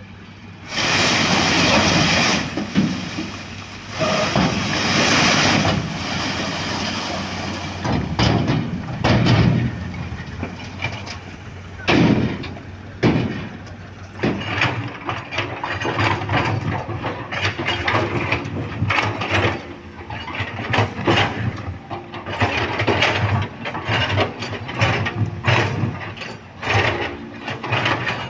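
Diesel heavy machinery at road works running steadily, with two long bursts of loud hissing noise in the first few seconds, then a run of repeated metal clanks and knocks.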